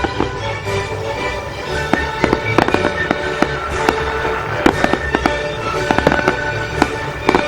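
Fireworks display: a rapid run of sharp bangs and crackles from bursting aerial shells, with music playing throughout.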